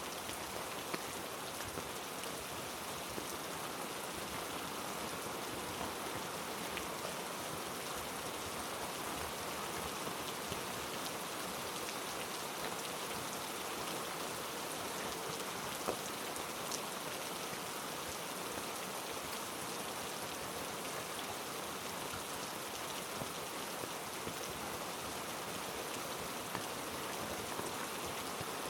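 Heavy rain falling on rainforest foliage: a steady hiss of rain, with scattered single drops striking close by.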